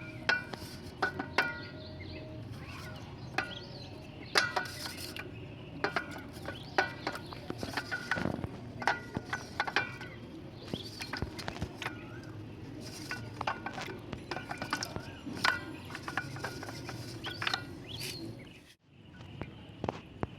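Slate pencils being crunched: sharp, irregular crunches and snaps, several a second at times, over a steady low background. The crunching stops near the end.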